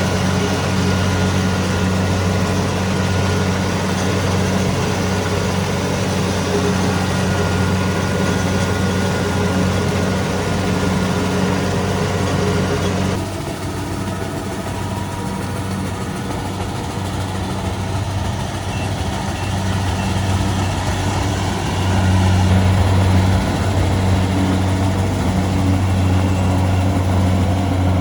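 Kubota DC-70 Pro combine harvester's diesel engine running steadily at working speed with a deep, even drone. The sound drops abruptly a little under halfway through and grows louder again about three quarters of the way in.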